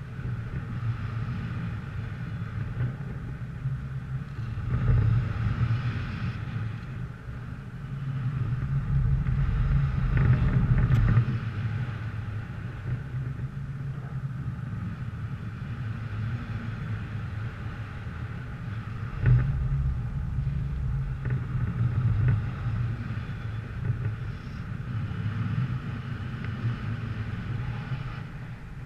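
A motor vehicle's engine running steadily, rising and falling in level several times, mixed with wind rumble on a GoPro's microphone.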